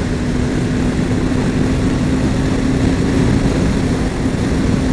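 KTM 390 Adventure's single-cylinder engine running at a steady high speed, a constant drone under loud wind rush on the riding microphone.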